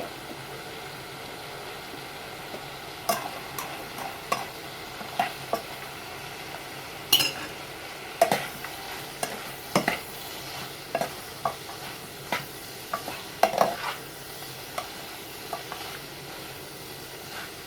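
Vegetables sizzling in a frying pan with a steady hiss while a utensil stirs them. From about three seconds in, the utensil clinks and scrapes against the pan at irregular intervals.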